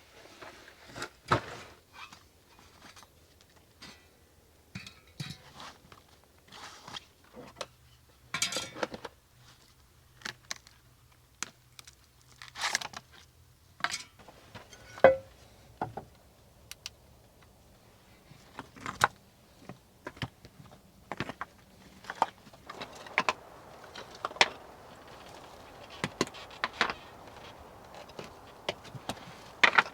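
Irregular clicks, knocks and clatter of objects being handled and set down, with a few sharper single knocks.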